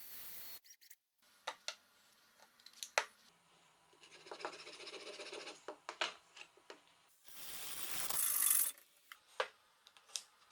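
Metal parts and tools being handled: scattered sharp clinks and scrapes. There is a buzzing stretch in the middle, and a short noise burst about three-quarters of the way through that grows louder before it stops.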